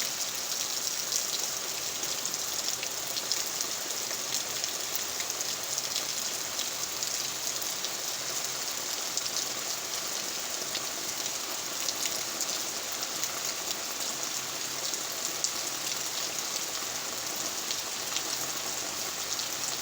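Steady rain falling, a dense patter of drops on surfaces that keeps an even level throughout.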